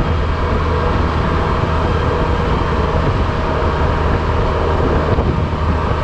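Honda Silver Wing maxi-scooter engine running steadily at cruising speed, under a constant rush of wind noise on the camera microphone.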